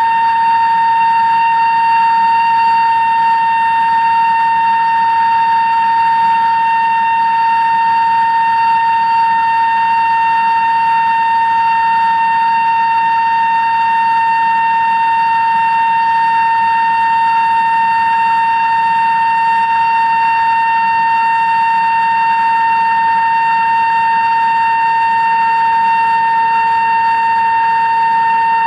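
2-inch Kennametal drill cutting through 316 stainless steel in a CNC machine, giving off a loud, steady high-pitched whine with ringing overtones over the machine's running noise. A fainter, lower tone joins in near the end.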